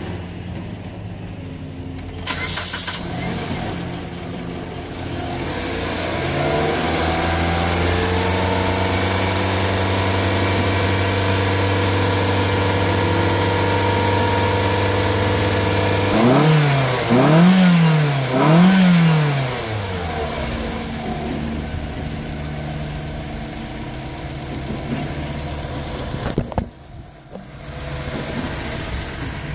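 2006 Mitsubishi Colt's MIVEC petrol engine running steadily at idle, then rising to a higher steady speed held for several seconds. It is then revved three times in quick rises and falls before settling back to idle.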